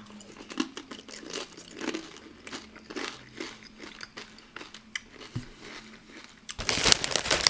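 Crunching and chewing of tortilla chips with dip, irregular crisp bites, followed near the end by a louder, denser stretch of crinkling.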